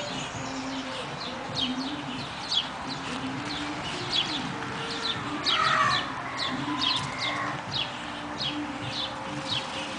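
Several birds calling together: short high chirps repeating about twice a second, over lower, wavering calls, with a louder call in the middle.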